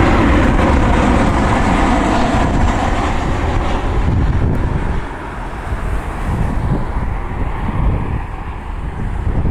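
Jet airliner passing close by on its landing approach, a loud engine rush with a faint whine in it that drops off about halfway through as the aircraft moves away.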